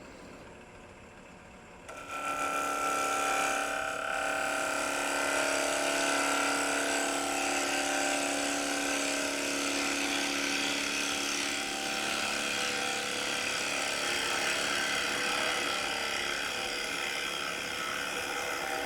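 Bowl gouge cutting across the face of a block of construction lumber spinning on a wood lathe. The cut starts about two seconds in, over the quieter lathe running, and carries on as a steady hissing cut with a held whine.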